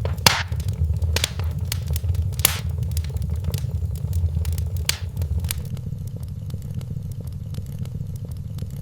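Wood fire in a fireplace crackling, with irregular sharp pops, the loudest about a third of a second in, over a low rumble that eases off about halfway through.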